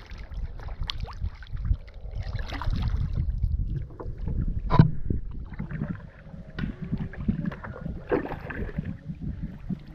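Wind buffeting the microphone in a gusty low rumble, with scattered knocks and one sharper knock about five seconds in.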